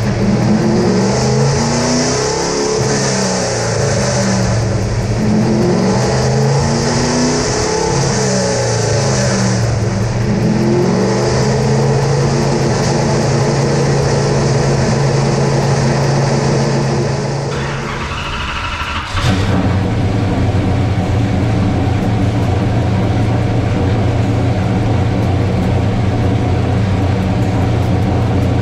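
Carbureted GM 604 crate small-block V8, freshly built, running on a chassis dyno through slow rising and falling rev sweeps under moderate load, the break-in procedure that seats the piston rings. About two-thirds of the way through the sound changes abruptly and the engine settles to a steady, unchanging speed.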